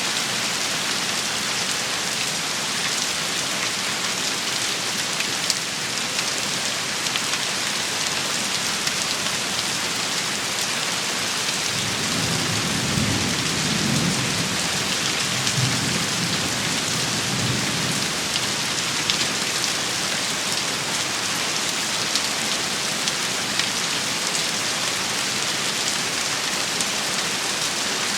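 Steady heavy rain hissing on a surface, with scattered pattering drops. About twelve seconds in, a low rumble of thunder rolls for around six seconds, then fades back under the rain.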